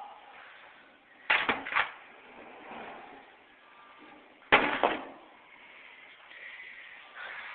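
Door knocking and clattering: a quick run of three knocks about a second in, then one louder knock midway through.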